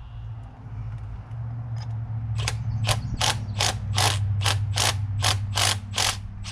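Hand ratchet wrench clicking in quick, even strokes, about three a second, starting about two and a half seconds in, as a Loctite-locked nut on the bicycle engine's gear is backed off. A steady low hum runs underneath.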